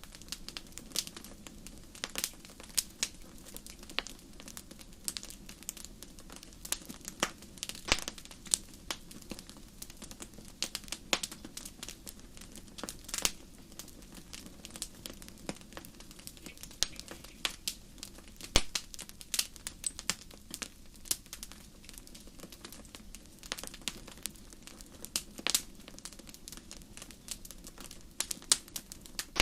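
Wood fire burning in a fireplace: irregular sharp crackles and pops, several a second, over a low steady hiss of the flames.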